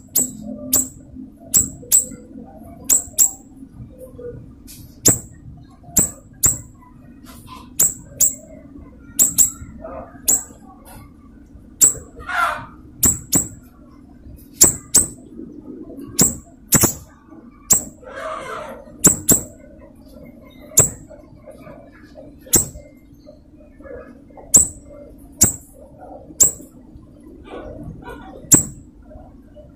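A siri-siri songbird calling busily: a long run of short, sharp, very high chip notes, about one or two a second at uneven intervals, with a longer, lower call twice along the way. A faint steady low hum runs underneath.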